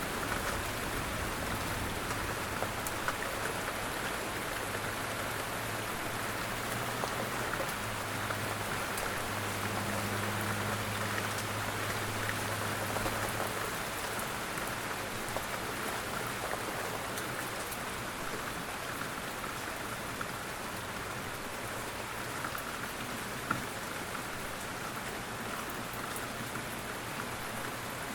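Steady rain falling on a surface, with scattered individual drops ticking through it. A low steady hum sits underneath for about the first half.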